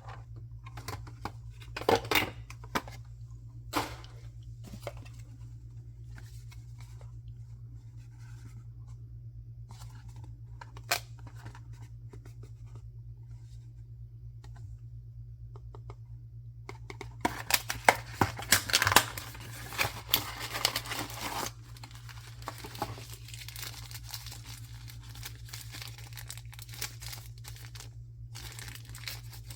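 Blind-box packaging being handled and opened by hand: scattered crinkles and snaps at first, then a loud burst of tearing and crinkling about two-thirds of the way through, followed by steady softer rustling. A low hum runs underneath.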